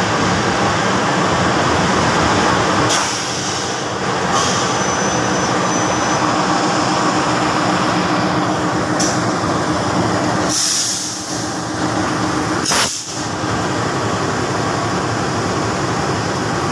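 KAI CC 206 diesel-electric locomotive hauling a train of fuel tank wagons past at close range, its engine running loudly over the rumble of wheels on rail. Several short hisses break through, and a thin high squeal is heard for a moment about four seconds in.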